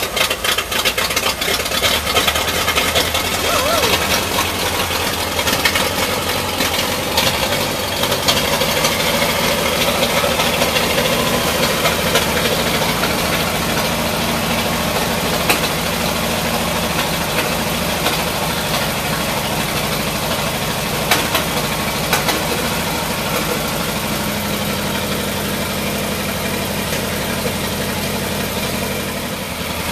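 1946 Ford truck's flathead engine running steadily, just brought back to life after arriving unable to start. There are a couple of brief sharp clicks in the middle.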